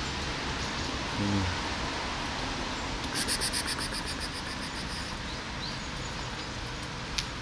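Steady rain hiss on wet pavement. There is a brief low vocal sound about a second in, and a rapid high-pitched trill of about ten pulses a second around the middle.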